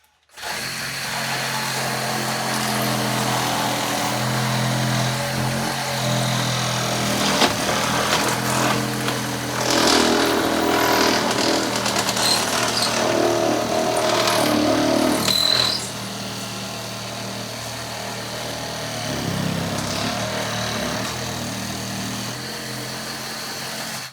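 A handheld electric power tool running while it cuts into a foam block. It starts just after the opening and shuts off suddenly at the end, with louder, rougher cutting noise in the middle.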